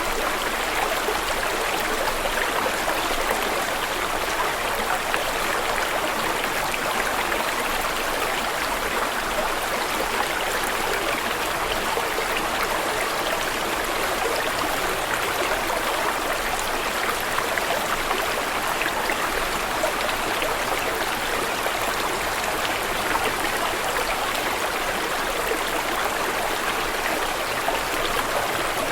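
Running water flowing steadily, an even continuous rush like a stream, with no breaks or changes.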